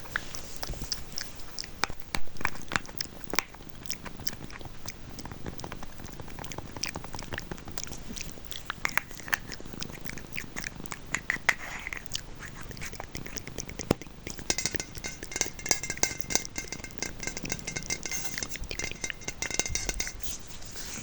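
Close-miked ASMR trigger sounds: a run of small, crisp clicks and taps, joined by a steadier rasping texture from about two-thirds of the way in until near the end.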